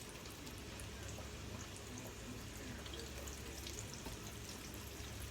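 Faint, steady sizzle of hot cooking oil in a frying pan, with scattered small crackles over a low hum.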